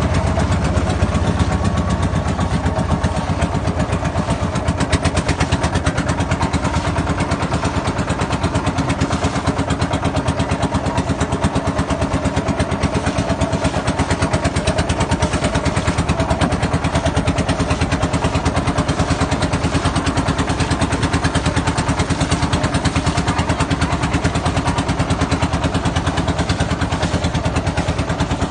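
A boat's engine running steadily with a fast, even chugging beat.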